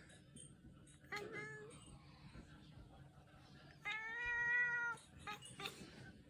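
A gull gives two long, level mewing calls, one about a second in and a louder one near four seconds in, over a low rush of wind.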